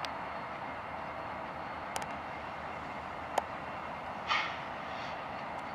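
Freight train with diesel locomotives passing: a steady rolling noise, broken by sharp clicks at the start, about two seconds and three and a half seconds in, and a short hiss just after four seconds.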